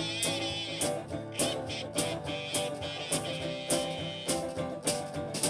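Instrumental break of a slow blues song: guitar playing over a steady drum beat, about two hits a second.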